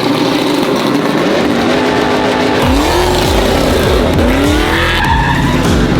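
Truck engine revved hard over and over in a burnout, its pitch sweeping up and down again and again, with tyre squeal and spinning-tyre noise. The revving grows heavier and deeper about two and a half seconds in.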